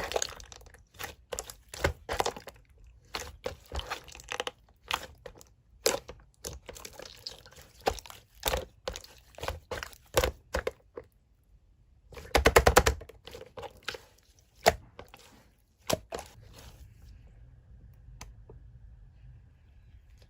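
Slime being squeezed, stretched and poked by hand, giving quick irregular clicking and popping. About twelve seconds in there is a short, louder run of rapid pops; after a couple more single clicks it goes nearly quiet for the last few seconds.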